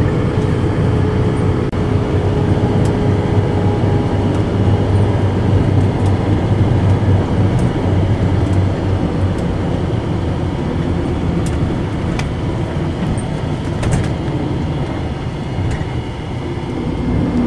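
Passenger train running along the track: a steady low rumble of wheels on the rails, with a few sharp clicks here and there.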